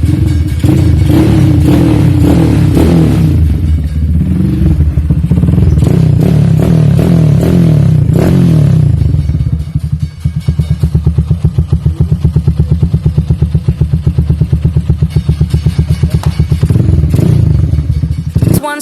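Motorcycle with an aftermarket racing exhaust running loud. For the first half it gives a steady deep rumble, then about halfway through it turns to a fast, even throbbing of several pulses a second, and it cuts off abruptly near the end.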